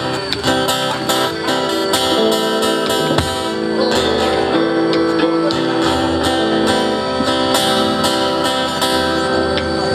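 Live band playing an instrumental passage led by guitar, with strummed chords over a steady beat.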